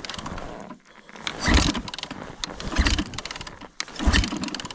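Yamaha YZ450 four-stroke dirt bike being kick-started: several heavy kicks about a second and a half apart, the engine turning over without firing. Freshly rebuilt and tight, it is hard to kick over.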